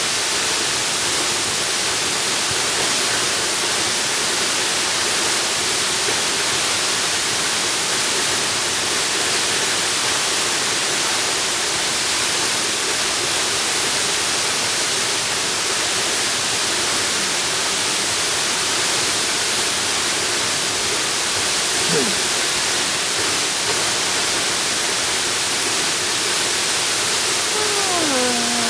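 Jungle waterfall: a steady, loud rush of falling water, with a few faint short falling tones near the end.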